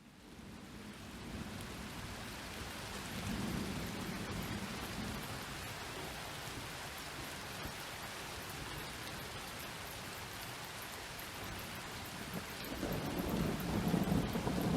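Steady rain falling, with low rolling thunder rumbling under it, swelling about three seconds in and again, louder, near the end.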